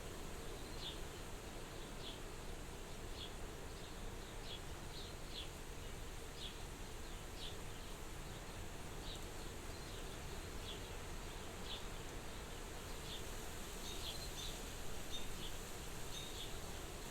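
Soft, steady wind at a window, with short high-pitched chirps repeating irregularly about once a second.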